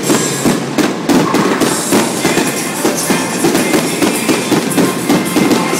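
Fireworks display in a dense, continuous barrage: many shell bursts and crackles overlapping with no break, over music.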